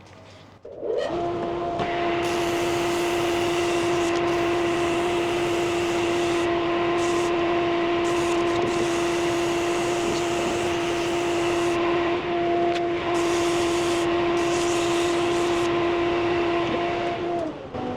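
Lathe motor starting about a second in and running at a steady whine, with 320-grit sandpaper hissing in bursts against the spinning ebony cue butt. Near the end the lathe switches off and its whine falls away.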